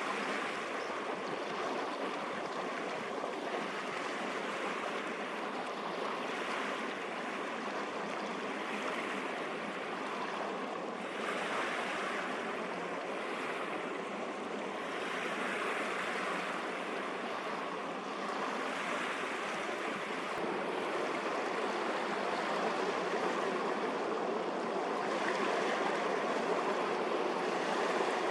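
Rushing sea water and waves: a steady wash that surges every few seconds.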